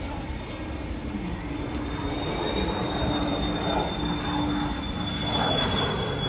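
Business jet's turbofan engines running as it arrives: a steady rumble with a thin high whine, growing a little louder from about two seconds in.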